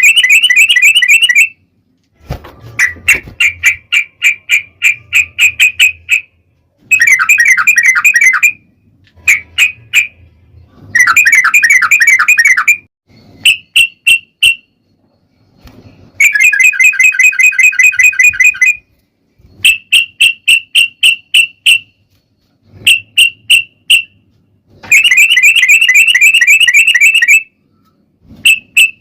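Yellow-vented bulbul (trucukan) song: loud runs of rapidly repeated chattering notes, some packed into fast trills and some spaced a few a second, each run lasting one to three seconds with short pauses between them.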